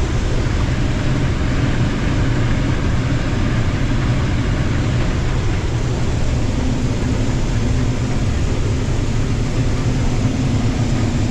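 Combine harvester running steadily while harvesting corn: an even, unbroken low drone of engine and threshing machinery.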